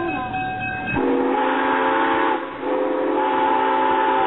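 Steam locomotive whistle sounding two blasts, a short one about a second in and a longer one after a brief gap. Each blast is a chord of several notes held at a steady pitch.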